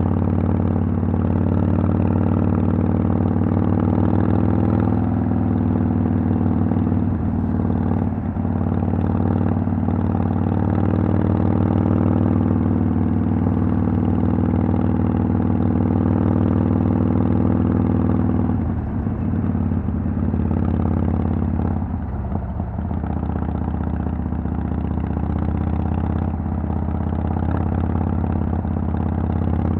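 2010 Harley-Davidson Sportster XL883L's 883 cc air-cooled V-twin running through Vance & Hines Twin Slash exhaust with a steady engine note. The level dips briefly around 19 s and again around 22 s.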